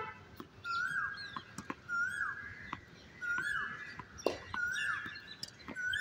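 A bird calling over and over, a short note ending in a falling hook, repeated about five times at an even pace. A tennis ball bounces on the hard court with a sharp knock about four seconds in.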